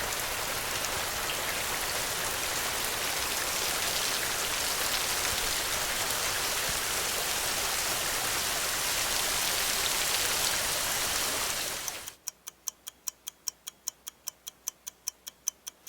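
Steady rain falling. About twelve seconds in the rain stops and a fast clock-like ticking takes over, about five ticks a second.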